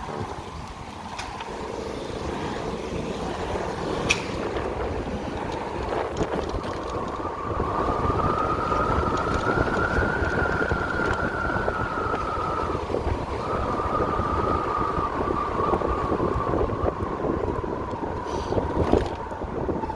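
Wind rushing over the microphone on a moving electric motorcycle. Partway through, a high whine rises slowly in pitch, breaks off briefly and then eases back down.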